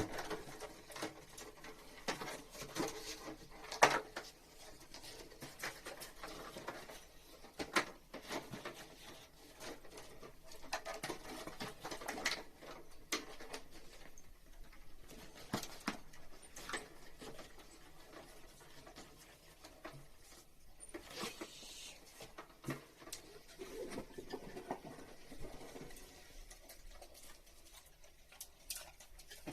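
Irregular light taps, clicks and rustles of hands and tools handling materials during air-conditioner piping work, with a couple of sharper knocks about four and eight seconds in.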